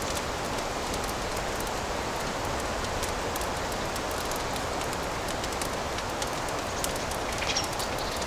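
Fireplace fire crackling steadily over a soft hiss, with a quick cluster of louder pops near the end.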